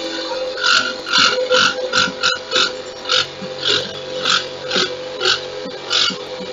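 Rap music played loud through a car audio system with subwoofers, a repeating beat pulsing about twice a second.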